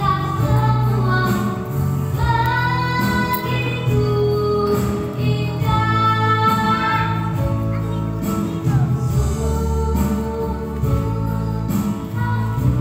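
A child singing a slow melody with long held notes over instrumental accompaniment.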